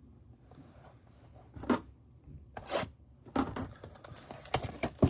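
Trading cards and plastic card holders being handled on a table: several short rustles and light knocks, the last few in quick succession near the end.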